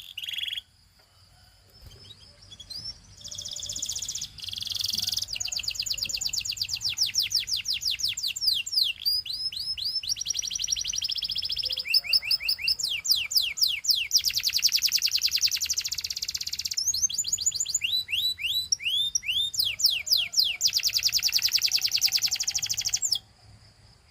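Canary singing in long, fast trills of repeated sweeping notes, moving from one roll to the next, with a short pause about a second in. The song stops about a second before the end.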